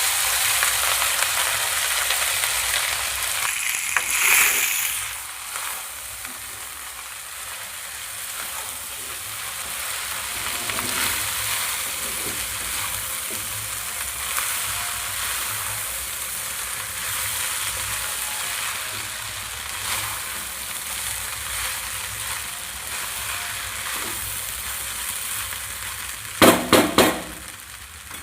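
Rice sizzling in hot oil and ghee in a kadai as it is stirred, loudest in the first few seconds and then settling to a steady frying hiss with light scrapes. A few sharp knocks come near the end.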